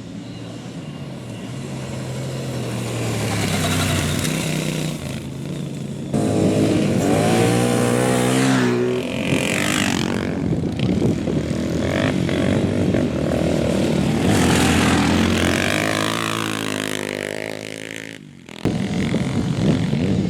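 Racing engines revving hard and passing by on a dirt track. The engine note climbs and drops through gear changes. The sound jumps abruptly twice, where one pass cuts to another.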